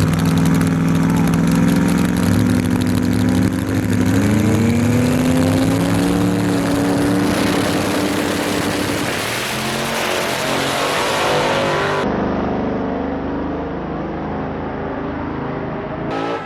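Drag race car engine at full throttle, accelerating hard with a gear change about four seconds in, then fading as the car pulls away.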